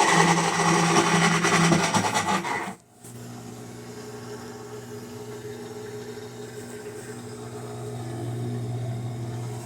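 Electrolux LT15F washing machine running with a loud, harsh mechanical noise that cuts off suddenly about three seconds in, leaving a steady lower hum. The noise comes from a broken transmission (gearbox) that no longer engages.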